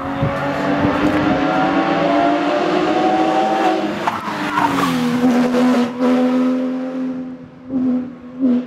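Classic car's engine pulling hard under acceleration: its pitch climbs for about four seconds, then drops at a gear change and holds fairly steady, with two brief lifts off the throttle near the end.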